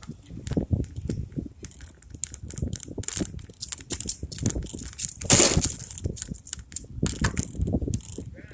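Bicycle being ridden: irregular clicking and rattling from the bike over a steady low tyre rumble, with a louder rushing noise for about half a second around five seconds in.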